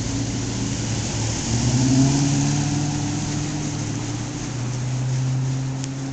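Car engine running, picking up revs about a second and a half in as the car pulls away, then easing off and fading near the end.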